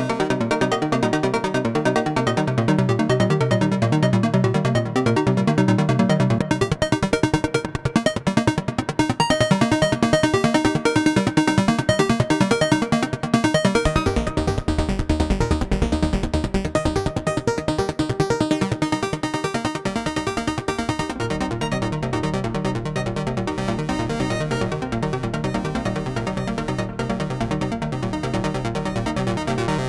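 Modular synthesizer sequence: an Expert Sleepers Disting EX macro oscillator (Braids clone) playing a fast run of short, repeated notes, each shaped by an envelope through a VCA or the Meng Qi DPLPG low pass gate, with Make Noise Mimeophon echo. The low part of the sound changes about halfway through.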